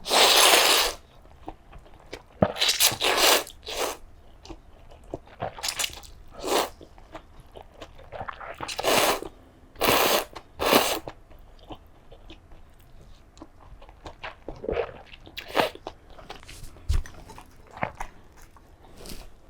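Close-miked eating: a run of loud bites and mouth noises, each up to about a second long, with crunchy chewing and small clicks in between.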